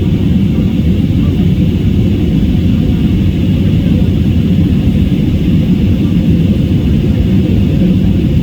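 Steady drone of a jet airliner's engines and airflow heard inside the passenger cabin: a heavy, even low rumble with a fainter hiss above it.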